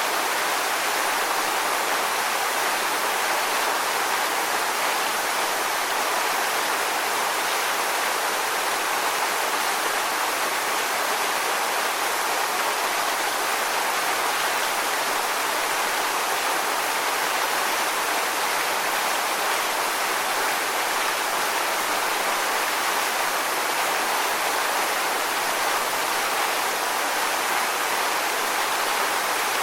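Rushing water: a steady, even hiss with no swells or breaks.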